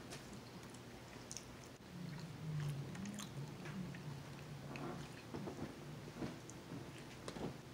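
Close-up chewing and mouth sounds of a man eating a cheeseburger, with small wet clicks and smacks throughout and a fresh bite into the burger near the end. A low hum lasts a couple of seconds about two seconds in.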